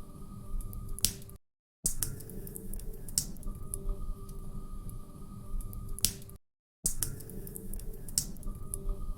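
Wood fire crackling in a fireplace: irregular sharp pops and snaps over a low, steady rumble. The sound cuts out completely for about half a second twice, around a second in and again past the middle, where the short recording loops.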